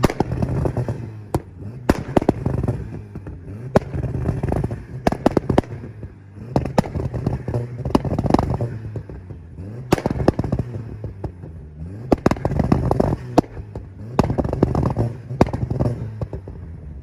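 Volkswagen engine held on a two-step launch limiter, revving in repeated bursts about every two seconds with rapid sharp exhaust pops and bangs.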